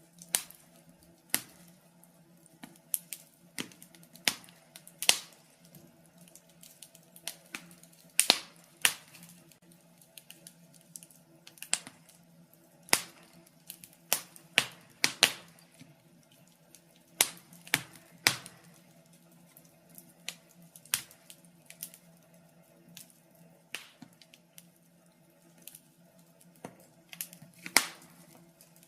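Wood fire in a fireplace crackling, with sharp, irregular pops about once a second, some much louder than others, over a faint steady hum.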